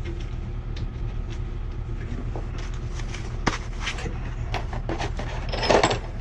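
Hands handling metal pipe fittings: scattered short clicks and knocks, with a sharp one midway and a louder cluster near the end, over a steady low hum.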